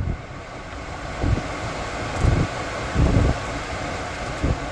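Steady rush of air from the car's climate-control blower fan, with a few short low bumps on the microphone.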